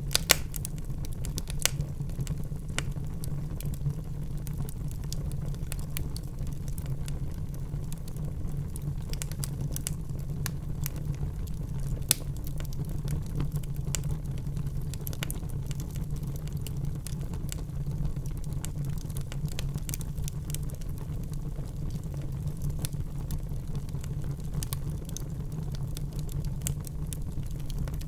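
Wood fire burning in a fireplace: a steady low rumble of the flames with frequent irregular crackles and occasional sharper pops.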